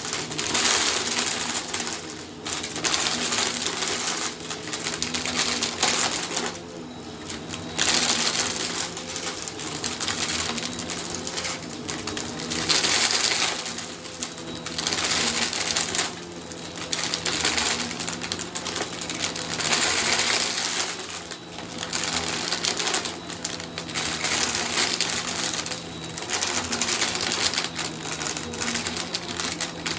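Bissell vacuum cleaner running over a shag rug: a steady motor hum under a rushing suction noise that swells and fades with each push and pull stroke.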